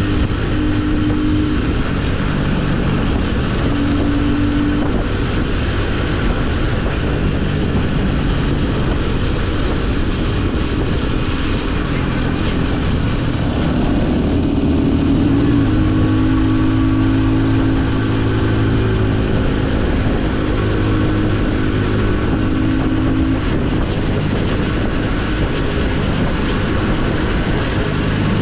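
Small motorcycle engine running under way with wind noise; the engine note shifts about halfway through, then holds steady.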